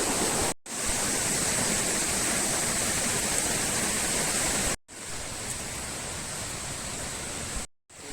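Steady rushing of river water through a rocky gorge, broken by short dropouts at edits; after the one about five seconds in it is quieter and more distant.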